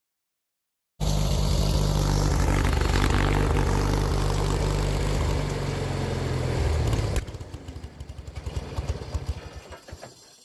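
John Deere 317 garden tractor engine running under load with its tiller, then slowing and stopping abruptly about seven seconds in, followed by scattered clicks and rattles as it settles. The engine stopped hard, which the owner puts down to the tiller being down and the engine running very hot.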